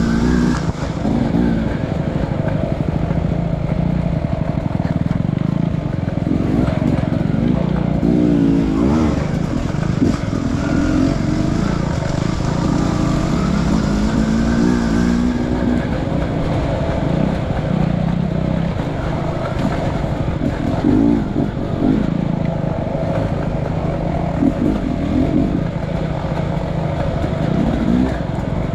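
Enduro dirt bike engine running under load off-road, its revs rising and falling again and again as the throttle is worked.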